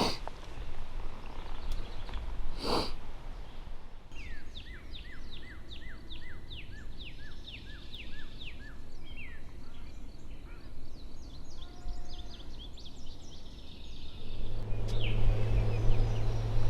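Outdoor field ambience with a songbird singing a fast series of clear down-slurred whistled notes, about two a second, with scattered shorter notes after a pause. There is a single sharp click about three seconds in, and a steady low hum begins near the end.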